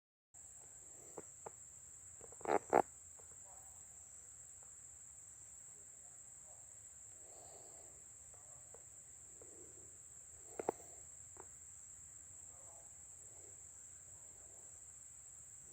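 Steady high-pitched insect chorus, one unbroken shrill tone. There are two sharp knocks about two and a half seconds in, the loudest sounds here, and a smaller click around ten seconds in.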